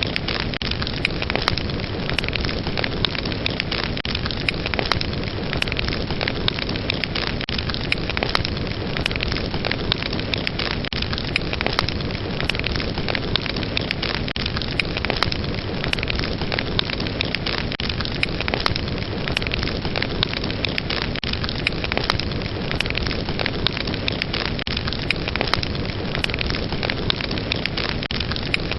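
Fire burning steadily with a constant rushing hiss and dense, irregular crackles and pops.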